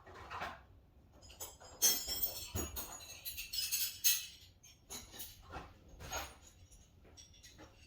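Metal hand tools clinking and jangling against each other as wrenches are rummaged through, loudest in a clattering stretch from about two to four seconds in.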